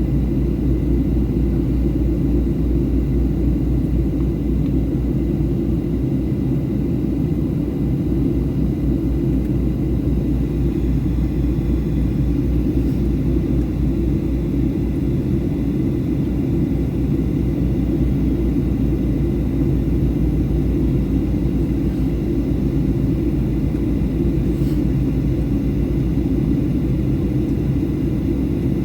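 Steady in-flight cabin noise of a Boeing 737-800 on descent: an even, low rumble of its CFM56 turbofan engines and the airflow over the fuselage.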